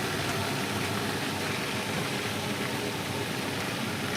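Steady, unbroken rushing noise at the stove during deep-frying, with the oil left heating in the pan after the chicken is lifted out.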